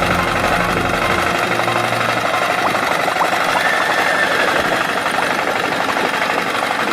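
A steady, rattling engine-like running sound. Low background music fades out in the first two seconds.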